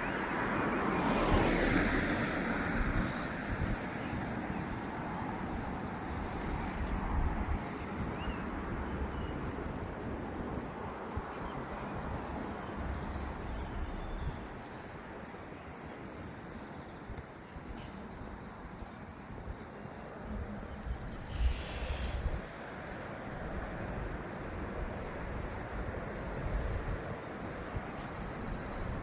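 Outdoor ambience along a canal towpath: a steady background hum, with a vehicle passing in the first few seconds that swells and then fades, and wind buffeting the microphone in low, uneven gusts.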